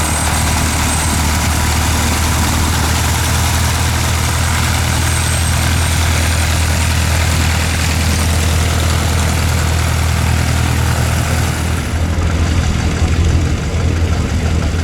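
Loud, steady running of a light aircraft engine, a low drone over a broad hiss, with a thin high whine that fades out about halfway through. Near the end the hiss drops away and the drone turns rougher and more uneven.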